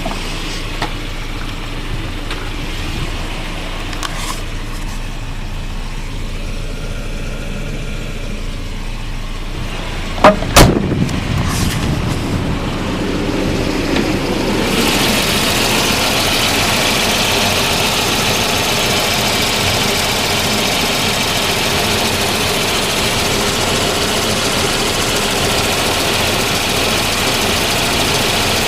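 Volvo 240's B230FX 2.3-litre four-cylinder engine idling steadily as it warms up after a cold start. Two loud knocks come about ten seconds in. From about a third of the way in, the running sound gets louder, with more hiss.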